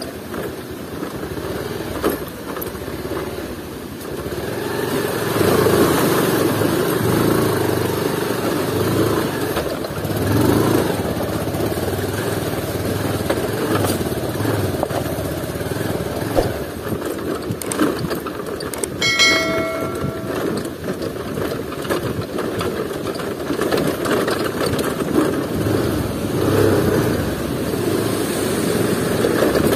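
Bajaj Pulsar 220F's single-cylinder engine running as the motorcycle is ridden slowly over a rough, rocky trail, its note rising and falling with the throttle. About two-thirds of the way through, a brief higher-pitched tone sounds.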